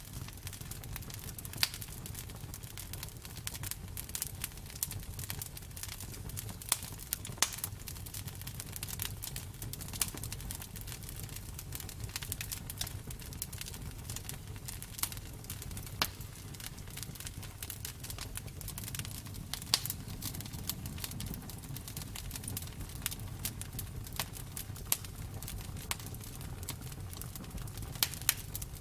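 Campfire burning: a steady low rumble of flames with irregular sharp crackles and pops of the burning wood.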